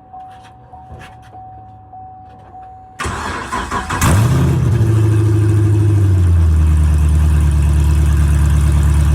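A V8 car engine being started: the starter cranks for about a second, the engine catches with a sharp rev flare and settles straight into a loud, steady idle. Before it, a faint steady tone and a few light clicks.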